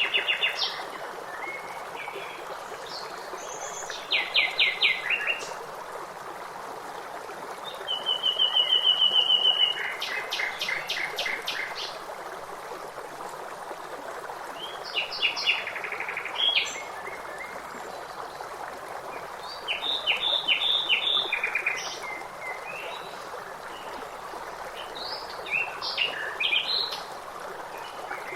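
Songbirds singing in short phrases of rapid trilled notes every few seconds, over the steady rush of a flowing stream.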